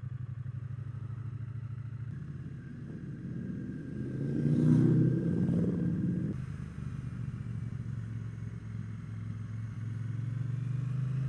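Triumph Bonneville T120's parallel-twin engine running steadily as the motorcycle rides along, heard from on board. About four seconds in, a louder swell of rushing noise rises and fades away again a couple of seconds later.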